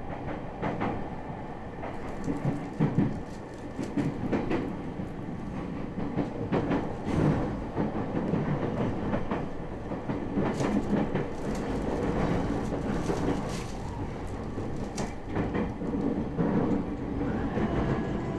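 JR Tokaido line commuter train running into Tokyo Station, heard inside the car: a steady rumble with irregular clacks of the wheels over rail joints and points.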